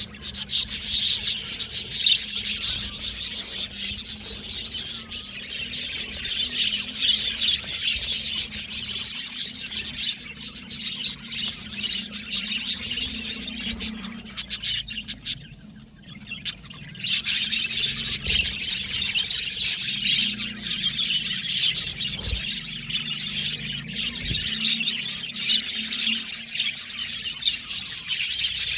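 A flock of budgerigars chirping and warbling in a dense, continuous chatter, which drops into a brief lull about halfway through. A faint steady low hum runs underneath.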